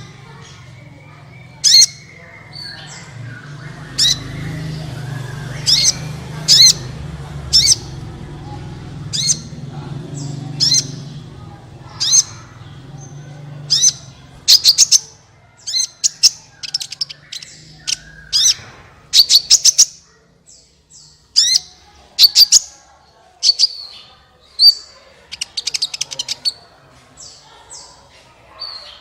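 A sunbird ('kolibri') calling with sharp, high chirps. They come singly about once a second at first, then in quicker clusters in the second half. A low steady hum runs underneath for the first half.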